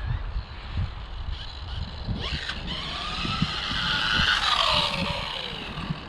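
Rlaarlo AMX12 1/12-scale RC buggy's electric motor and drivetrain whining as it accelerates, rising in pitch from about two seconds in, peaking, then winding down near the end, over a low uneven rumble.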